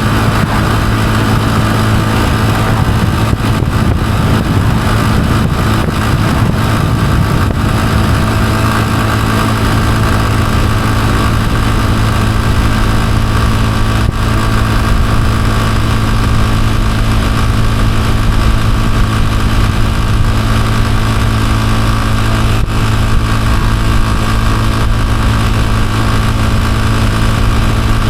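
Honda CG125's single-cylinder four-stroke engine running at a steady, even pace with no revving.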